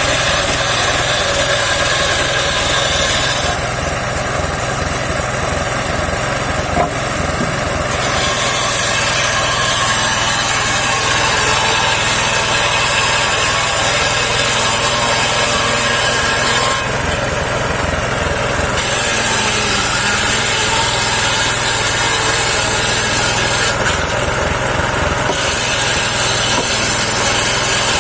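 Engine-driven homemade circular sawmill running steadily while its blade saws saman (rain tree) wood. The cutting noise eases off briefly three times: about 4 seconds in, about 17 seconds in and near 24 seconds in.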